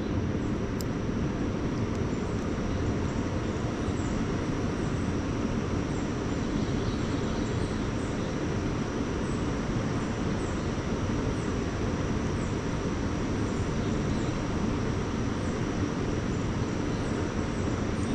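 Steady rush of water pouring through a dam spillway running high after heavy rain.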